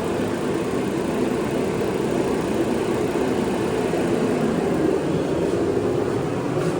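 Forced-air gas heater running steadily, its fan and burner making a constant low hum and rush.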